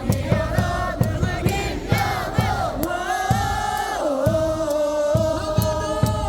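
Stadium crowd chanting a batter's cheer song in unison over amplified music with a steady drum beat.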